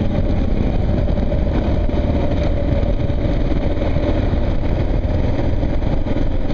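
Kawasaki KLR single-cylinder motorcycle engine running steadily at low road speed, with little exhaust popping on deceleration, which the owner credits to a new, freshly gapped spark plug.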